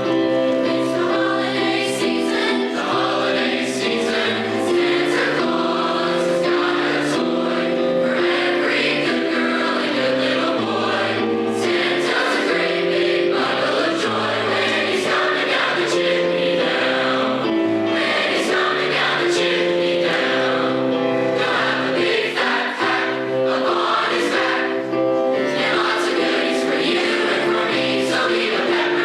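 High school choir singing, several voice parts held together in harmony, steady throughout.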